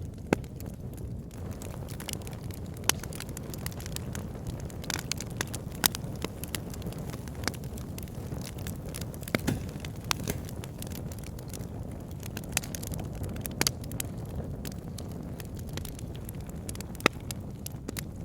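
Wood fire burning in a log burner: a steady low rumble of flames with irregular sharp crackles and pops from the logs, a few of them noticeably louder.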